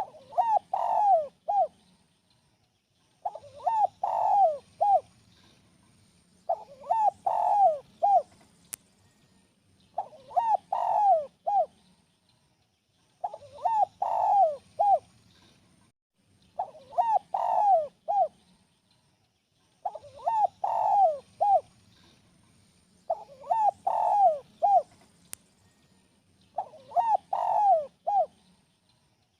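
Spotted dove (tekukur) cooing: a phrase of four or five quick coos repeated about every three seconds.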